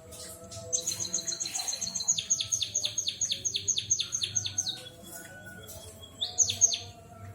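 Emprit kaji (white-headed munia) singing a canary-like song: a fast high trill that slows into a run of quick repeated descending notes, then a short held whistle and a quick rising phrase near the end.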